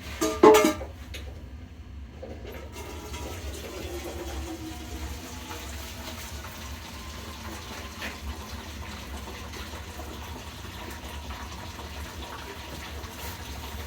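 Rusty water draining from a steam boiler as it is flushed, a steady run of water after a brief loud knock about half a second in.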